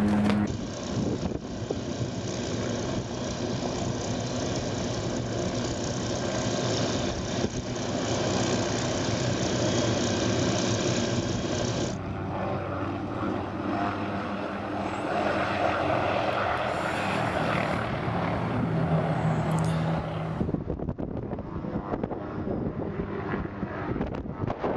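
A helicopter's engine and rotor running in flight, a steady mechanical drone with wind noise on the microphone; the sound changes abruptly twice, at about 12 and 20 seconds in.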